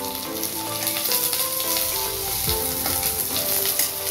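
Onions, garlic and green chillies frying in oil in a steel kadai, sizzling steadily as a slotted steel spatula stirs them. The spatula knocks on the pan about two and a half seconds in.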